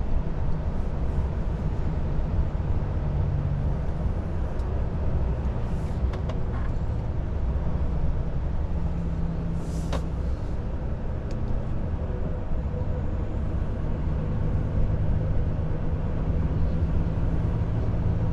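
Volvo FH 500 truck's 13-litre six-cylinder diesel engine running under way, with steady road rumble and an engine note that rises and falls slightly. A brief hiss is heard about halfway through.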